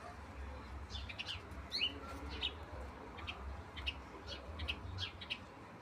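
Small birds chirping: many short, high chirps coming quickly one after another, over a steady low rumble.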